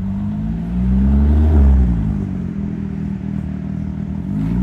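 Porsche 911 GT3's flat-six engine accelerating, its note climbing to a loud peak about a second and a half in, dropping back, then climbing again near the end.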